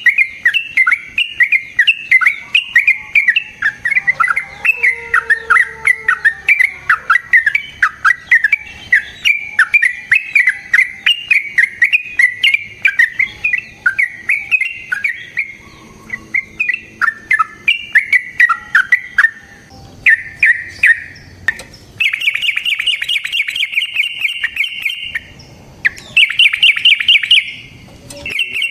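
Yellow-vented bulbul (trucukan) singing: a long run of quick, bubbly, gliding notes, then, from about two-thirds of the way in, fast rattling trills in short bouts with brief breaks between them.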